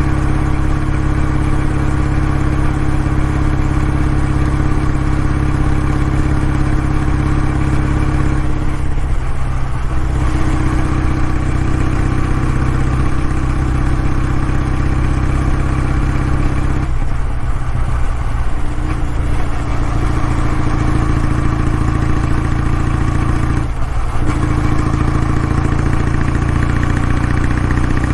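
Kawasaki W650's air-cooled parallel-twin engine running steadily through its exhaust, with three brief breaks in the note about nine, seventeen and twenty-four seconds in, after which it settles back to a steady pitch.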